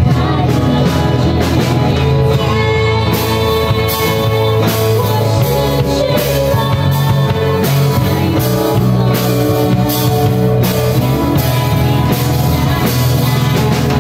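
A live band playing a song: a singing voice over guitar and drum kit with a steady beat.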